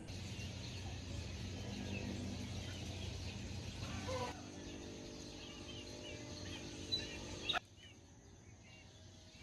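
Small birds chirping over a steady low hum, with a couple of short sharp sounds shortly before the end.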